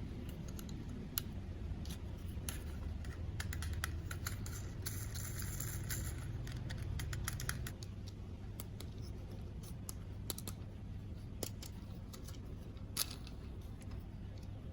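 Plastic toys and packaging being handled during an unboxing: scattered light clicks and taps, with a stretch of rustling from about two and a half to seven and a half seconds in, over a steady low hum.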